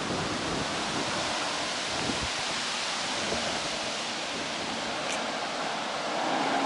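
Wind blowing steadily, with gusts rumbling on the microphone.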